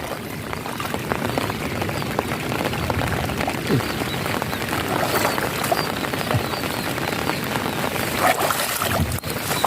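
Heavy rain falling steadily, with many drops splashing into puddles of standing water.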